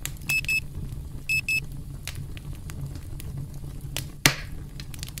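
Timer alarm beeping in quick pairs of high electronic beeps, twice, then stopping, over a crackling campfire. Fire crackle continues with scattered pops, one loud pop about four seconds in.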